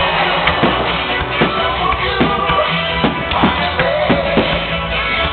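A rapid run of firework bursts, sharp bangs coming about twice a second, with music playing over loudspeakers.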